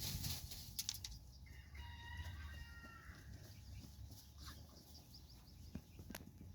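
Bantam rooster crowing once, faintly, from about a second and a half in for under two seconds, with a few short scratching and rustling sounds from chickens dust bathing over a low rumble.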